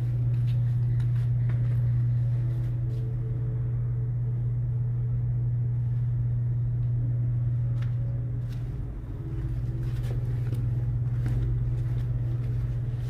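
Steady low mechanical hum, dipping briefly about nine seconds in.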